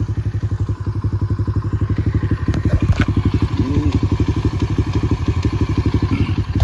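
RXF 150cc pit bike's single-cylinder four-stroke engine idling on choke while it warms up: a steady, rapid putter of about a dozen firing pulses a second. It is bogging less as it warms.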